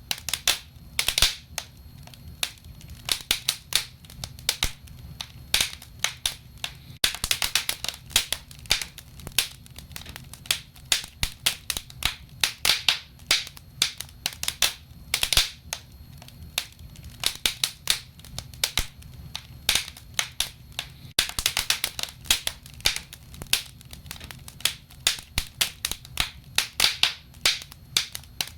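Wood fire crackling: irregular sharp pops and snaps, often several a second in clusters, over a low steady rumble of burning logs.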